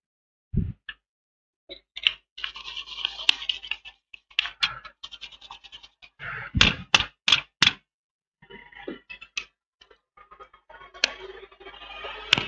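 Small repair tools handled on a workbench: scattered sharp knocks and clicks, four in quick succession near the middle, with stretches of scratching.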